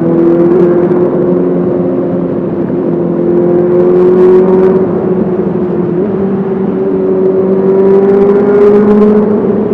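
Honda CBR 650R's inline-four engine through an SC-Project SC1R exhaust, pulling steadily in gear. Its note rises slowly and evenly as the revs climb.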